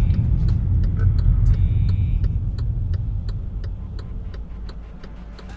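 Low road-vehicle rumble that fades steadily, with a regular ticking about twice a second.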